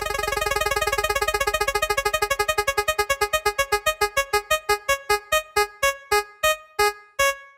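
A single electronic keyboard-like note repeated very fast at first, the repeats slowing steadily until they come about two a second near the end, like a spinning prize wheel winding down.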